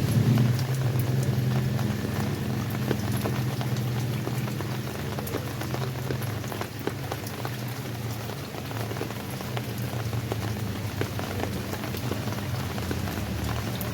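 Steady rain falling, with individual drops ticking sharply on a surface. A low rumble underneath is loudest at the start and eases off over the first few seconds.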